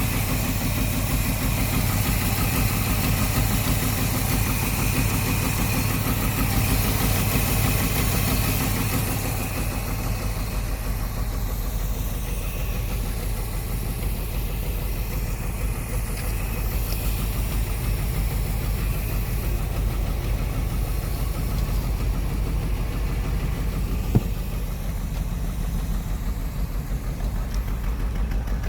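1964 Ford Thunderbird's 390 V8 idling steadily, with one sharp click about 24 seconds in.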